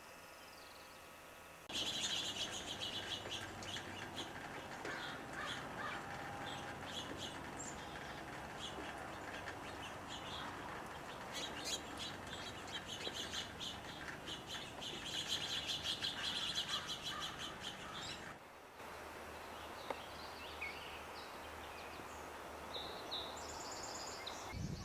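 Wild birds calling, with quick chirps and trills over steady background noise. The sound changes abruptly about two seconds in and again near the end, as if separate recordings were joined.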